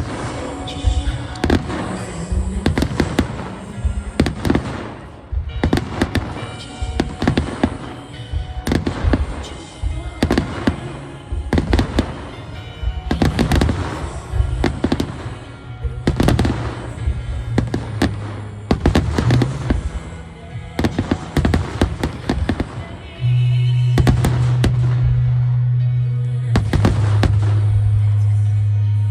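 Fireworks finale: aerial shells bursting in rapid clusters of sharp bangs and crackles, one volley after another, over music. About 23 seconds in, a loud steady low hum sets in under the bursts.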